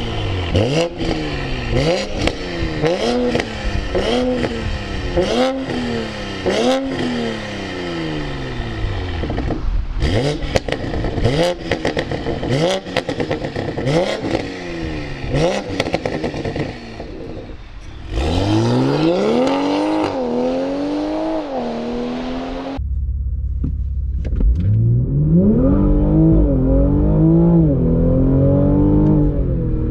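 Manhart-tuned Toyota Supra's 3.0-litre turbo straight-six revved hard at a standstill through the exhaust, each rev rising and falling in about a second with sharp crackles and pops on the overrun; the exhaust valves are closed at first and open from about ten seconds in. Near the end it switches to full-throttle acceleration heard from inside the cabin, the engine pitch climbing and dropping at each upshift.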